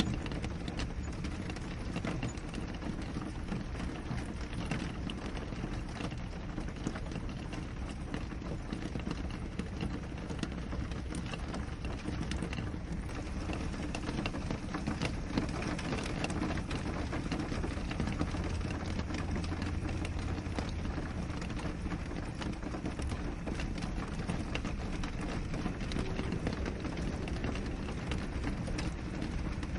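Steady rain on a window, a dense patter of many small drop ticks over a continuous hiss, with a steady low rumble underneath.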